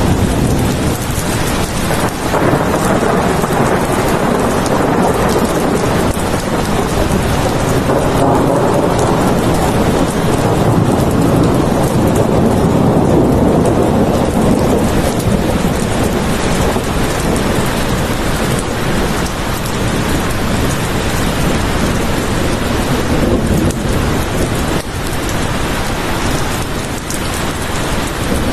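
Heavy rain falling steadily, with a low rolling rumble of thunder swelling through the middle.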